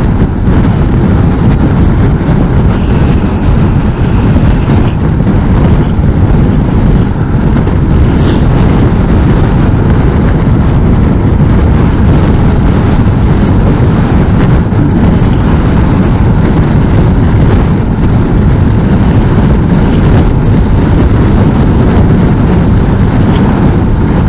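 Heavy wind rumble buffeting the microphone of a Honda NC750S motorcycle at riding speed in a strong crosswind, with the bike's running and road noise underneath. The rumble is loud and unsteady throughout.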